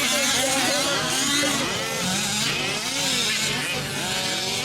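Several 1/5-scale RC race trucks' small two-stroke petrol engines running at once, each revving up and down in its own rise and fall of pitch as they race around the track.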